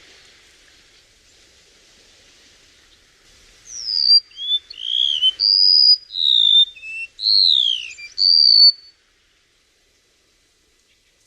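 Song of a chim sâu, a small Vietnamese songbird: after a few seconds of faint hiss, a phrase of about a dozen clear whistled notes begins near four seconds, some sliding down and some sliding up. It cuts off suddenly near nine seconds.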